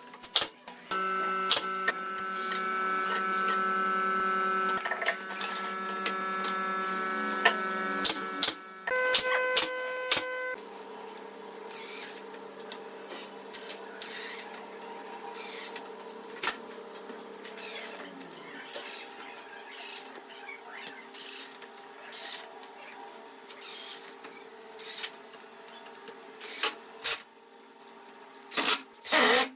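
Electric power-tool motor whining at a steady pitch, changing speed a few times, then dying away after about 18 seconds. Sharp clicks and knocks of handling run through it.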